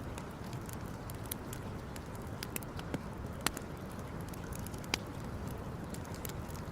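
Campfire burning, wood crackling with scattered sharp pops over a steady low rush; the loudest pops come about three and a half and five seconds in.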